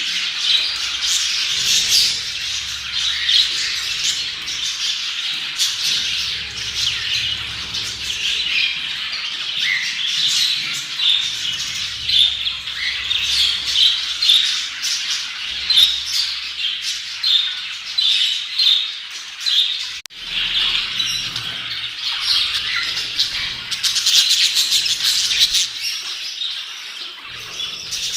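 Budgerigars chattering and chirping continuously, with many quick overlapping warbles and squawks.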